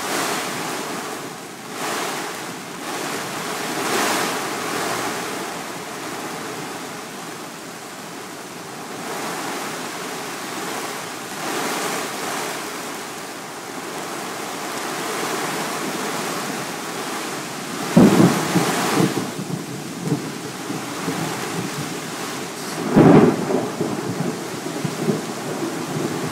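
Thunderstorm: heavy rain and gusting wind hiss steadily, rising and falling. Two loud, sudden cracks of nearby thunder come about five seconds apart in the second half.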